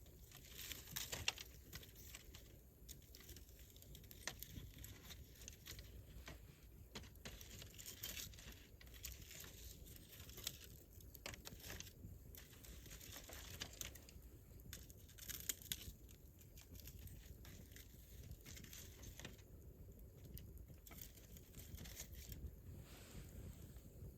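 Wood campfire crackling faintly, with irregular small pops and snaps and a couple of sharper pops about a second in and about fifteen seconds in.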